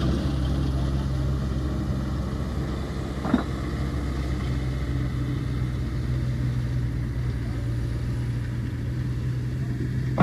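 Engine running steadily with a low, even hum. A single sharp knock comes about three seconds in, and another right at the end.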